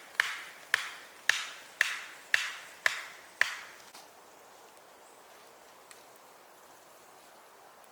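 A hand tool striking wood in a steady rhythm, about two sharp blows a second, seven in all, stopping about three and a half seconds in.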